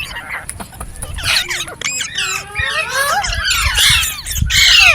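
Several green parrots calling over one another in a dense chatter of squawks, chirps and whistled notes, loudest near the end.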